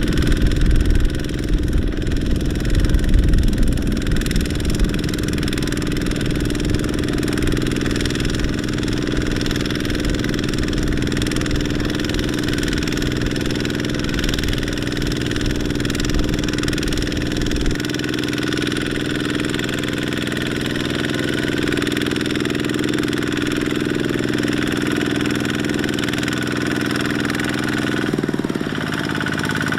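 Kubota mini tractor's diesel engine running steadily under load, with a heavy pulsing low rumble that eases off about two-thirds of the way through.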